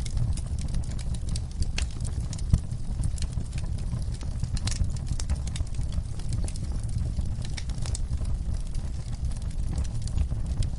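Wood fire in a fireplace crackling: scattered sharp pops and snaps over a steady low rumble of the flames, with one louder pop about two and a half seconds in.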